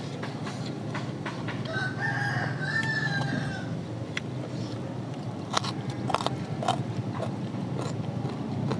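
A rooster crows once, about two seconds in, lasting about a second and a half, over scattered short clicks and smacks of eating.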